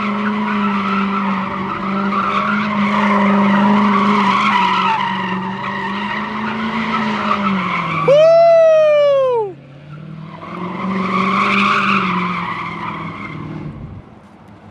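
A car sliding at a takeover: its engine runs steadily under a haze of tyre noise. About eight seconds in, a loud screech falls in pitch over about a second and a half and cuts off, then the engine and tyre noise come back.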